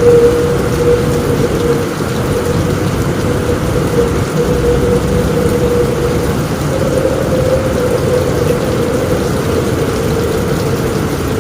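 Steady heavy rain falling on a roof in strong wind, with a constant, slightly wavering whistle-like tone from the wind running through it.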